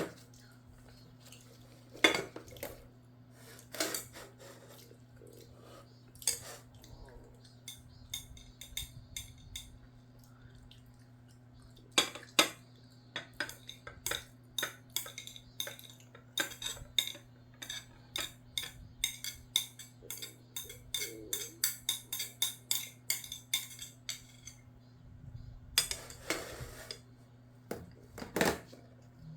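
Metal eating utensil clinking and scraping against a bowl: a few separate knocks, then a quick run of many small clinks from about 13 to 25 seconds in, and a couple more knocks near the end. A steady low hum runs underneath.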